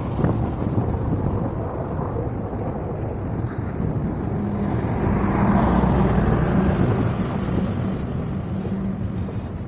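Deep rumble of a KAI CC206 diesel-electric locomotive and its train running past, growing louder about halfway through, where a steady engine hum comes in.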